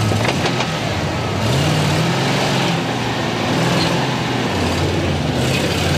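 Classic Range Rover's engine revving under load as the 4x4 crawls over a dirt mound, the pitch rising about a second and a half in and again near the end.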